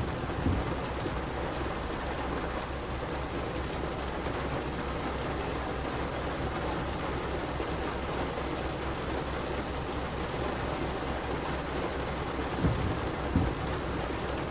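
Heavy rain falling steadily on a car, heard from inside the cabin, with a few brief low thumps: one about half a second in and two about a second apart near the end.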